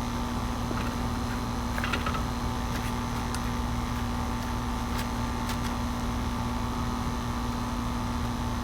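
A steady mechanical hum with a constant low tone, a few higher steady tones and a low rumble beneath, broken by a few faint clicks.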